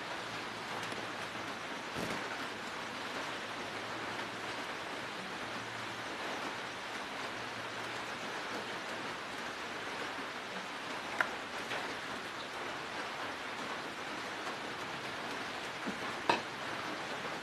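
Steady rain-like hiss with a few small sharp clicks, about 11 and 16 seconds in, from the soldering iron and solder being handled.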